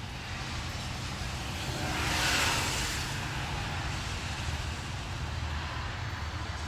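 Steady outdoor background noise in light drizzle: an even hiss over a low rumble, with the hiss swelling for about a second roughly two seconds in.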